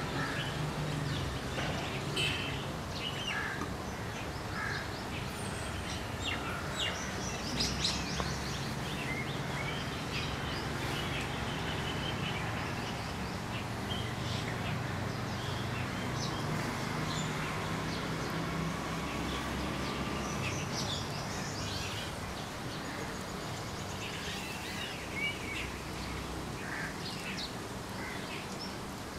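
Small birds chirping and calling over and over, many short high notes, against a steady low hum and background noise.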